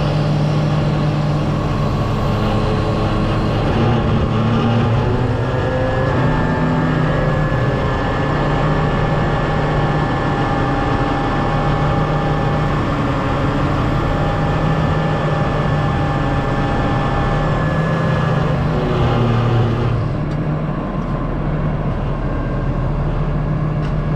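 Heavy machine engine running steadily, its pitch shifting a little as it works, with a change in tone about twenty seconds in.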